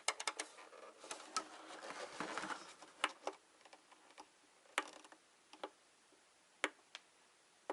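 A scattering of sharp clicks and light taps from hands handling plastic, a few close together early on and spaced out later. The APC Back-UPS itself gives no beep or hum, because it does not power on when plugged in.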